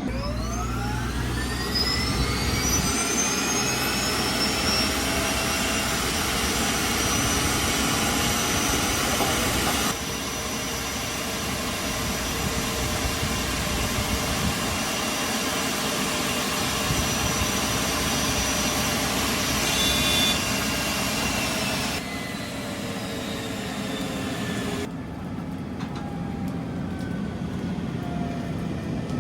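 Aircraft jet engine turning during an engine wash: a whine that rises over the first few seconds as it spools up, then runs steady. Near the end, faint falling tones as it winds down.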